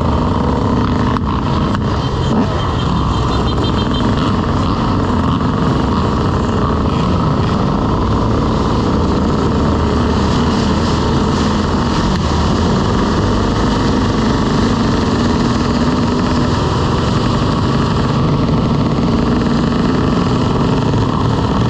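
Motorcycle engine running steadily under way, its pitch drifting up and down a little, mixed with dense rushing noise.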